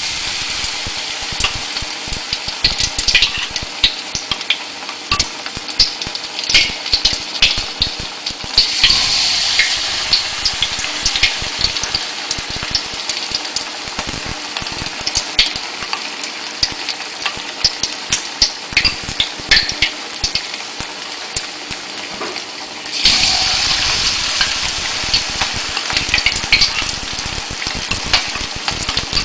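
Batter-coated stuffed tofu frying in hot oil in a wok: a steady sizzle full of crackling pops. It flares louder about nine seconds in and again about twenty-three seconds in.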